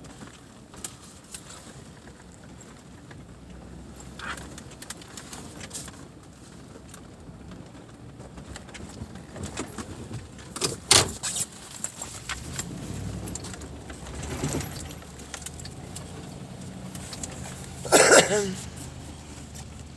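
A vehicle engine running low and steady, joining about halfway through, with scattered clicks and clattering and two loud sharp cracks, the second about two seconds before the end.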